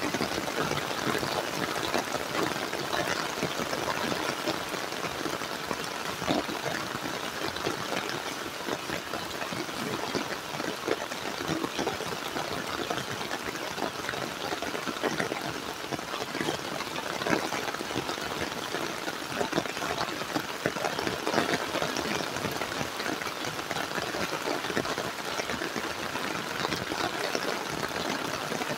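Heavy rain falling steadily, a dense even patter of drops with many small sharp taps.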